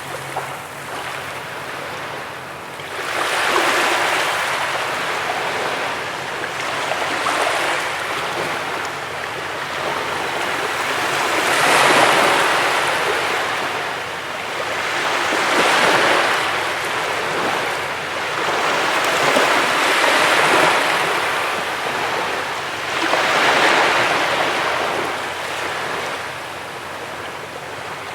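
Sea waves washing onto a beach, surging and receding about every four seconds.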